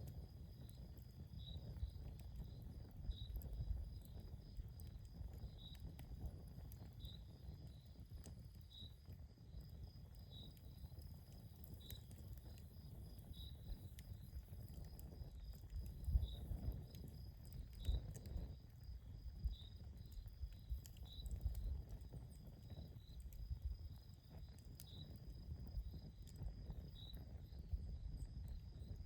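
Campfire crackling, with scattered sharp snaps over a low rumble of burning. An insect chirps regularly in the background, about once every second and a half, over a faint steady high trill.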